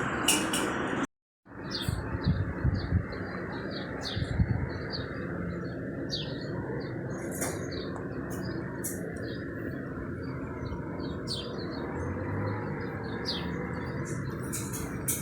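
Small birds chirping in short, scattered calls over a steady background hiss, with a few knocks early on.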